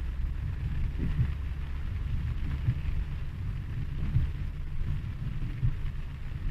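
Rain falling, with a gusty low rumble of wind buffeting the microphone.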